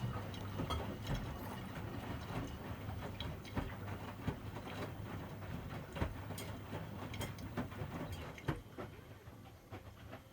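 Miele front-loading washing machines running: a steady low motor hum with irregular clicks and knocks as the drums turn the laundry, getting quieter near the end.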